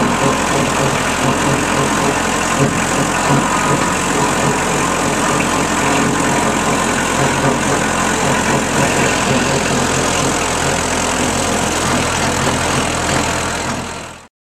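Kubota L285 tractor's diesel engine running steadily, fading out abruptly near the end.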